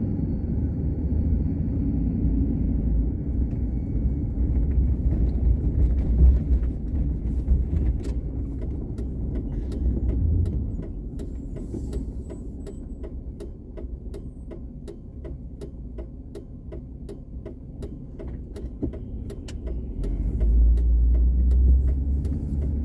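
Car driving on a snow-covered road, heard from inside the cabin: a steady low rumble of engine and tyres. The rumble eases off about halfway through, while a regular ticking goes on about three times a second, and it rises again near the end as the car picks up speed.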